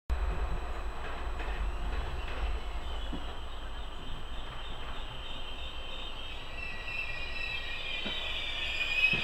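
Train running through a station with a steady low rumble and a few faint clicks from the wheels. From about six seconds in, a high metallic squeal of several pitches at once builds up and grows louder near the end.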